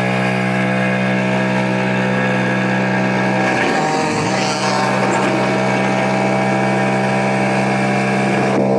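Small single-cylinder two-stroke kart engine, a TM 60cc, running at a steady speed. About three and a half seconds in, its speed dips briefly and then picks back up. The sound cuts off at the very end.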